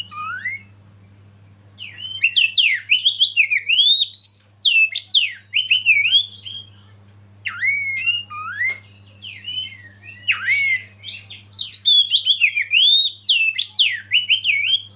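Oriental magpie-robin (kacer) singing a long, rapid run of varied whistles and chirps, in two bursts with a short pause about halfway through.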